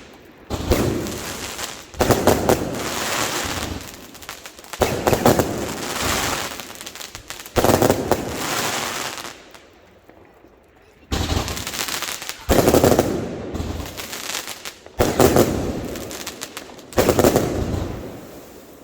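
Fireworks going off in quick succession: a sharp bang every two seconds or so, each followed by a second or two of crackle that fades, with a short lull about ten seconds in.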